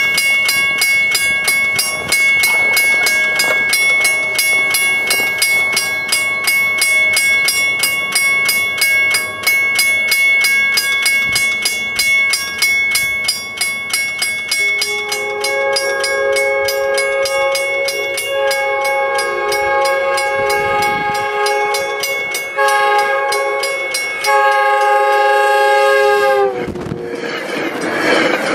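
MBTA commuter train horn with a frozen, iced-up horn. It first gives a thin, buzzing, pulsing tone, then sounds clear as a multi-note chord in the grade-crossing pattern of long, long, short, long. The horn cuts off near the end with a slight drop in pitch, and the train rushes past in a loud wash of noise.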